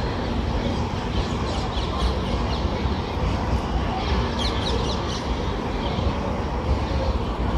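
Birds calling in short high chirps, in clusters about two and four seconds in, over the steady low rumble and hiss of railway station background noise.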